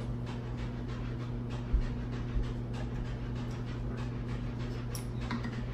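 A steady low electrical hum with faint scattered clicks, and one soft thump nearly two seconds in.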